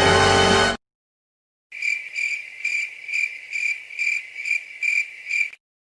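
Cricket chirping sound effect: a high, steady trill pulsing about twice a second for about four seconds. Before it, the tail of a music sting cuts off suddenly just under a second in.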